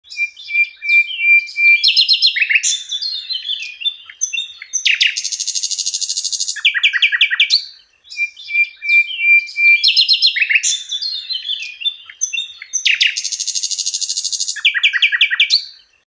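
Bar-winged prinia (ciblek) singing the same eight-second song phrase twice. Each phrase opens with a thin, high, steady note, then varied chirps and whistles, a fast buzzy trill, and ends in a run of about five sharp quick notes.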